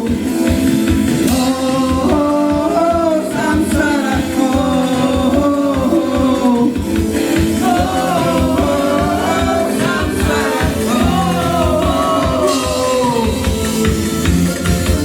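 A live band playing a song with singing over a steady drum beat.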